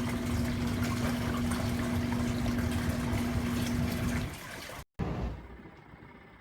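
Portable twin-tub washing machine running, with a steady motor hum under loud churning, splashing water. It drops away a little past four seconds in, and after a short break a fainter sound fades out.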